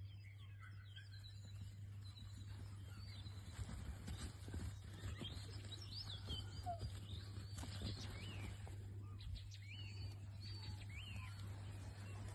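Faint outdoor ambience: small birds chirping now and then, over a steady low hum, with soft low thumps around the middle.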